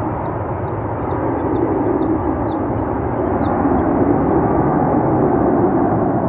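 Steady low rumble of the departing FedEx Boeing 757-200 freighter's jet engines. Over it, a quick series of high chirping calls, about two or three a second, trailing off near the end.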